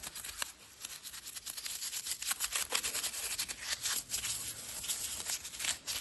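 Stiff brush scrubbing foaming degreaser into a Ford Focus ST225 engine, in quick back-and-forth scratchy strokes with a short pause about half a second in.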